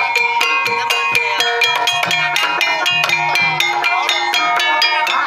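Javanese gamelan playing a Banyumasan tayub gending: ringing struck metallophone notes over a steady beat of drum strokes.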